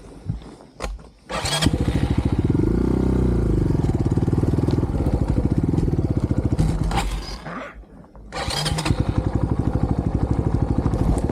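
A few knocks, then a dirt bike engine catches and runs, rising and falling in pitch as it is revved. About six seconds later it dies away and it is started again, running on.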